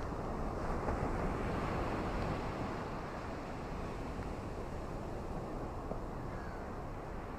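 Ocean waves washing onto a beach under steady rain: a continuous rushing noise that swells about a second in and eases back a couple of seconds later.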